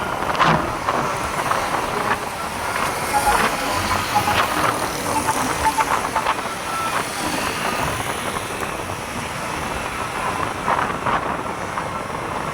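Roadside traffic noise of passing vehicles, with a few brief high pips about three to six seconds in.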